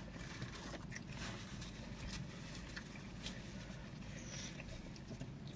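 Faint chewing and mouth clicks of people eating, scattered over a low steady background hum.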